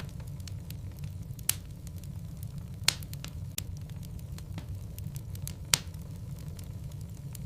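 Wood logs burning in a fireplace: a steady low rumble of the fire with frequent small crackles. Three louder sharp pops come from the burning wood, the last about two-thirds of the way through.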